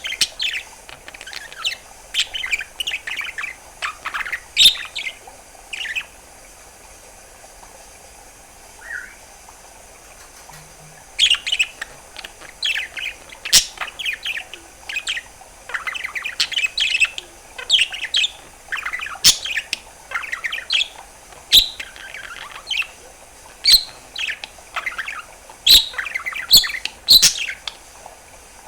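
Pet budgerigar chattering: rapid chirps and warbling notes with a few sharp clicks, falling quiet for about five seconds in the middle before starting up again.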